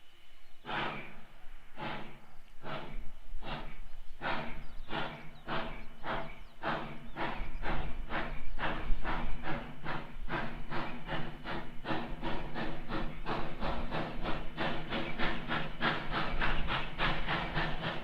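Steam locomotive #29, a 2-8-0, working hard under load, its exhaust chuffing in a steady rhythm that quickens from under two beats a second to about three a second as the train picks up speed.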